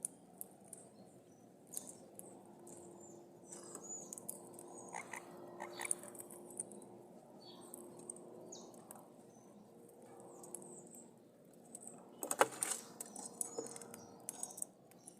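Maritacas (parrots) giving soft, scattered chirps among light clicking and rustling, with a brief flurry of sharper clicks about twelve seconds in.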